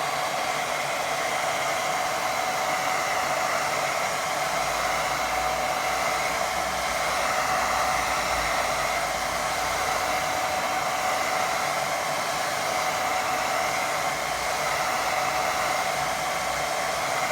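Hair dryer running steadily on low heat, blowing over wet watercolour paint to dry it: an even rush of air with a faint steady whine.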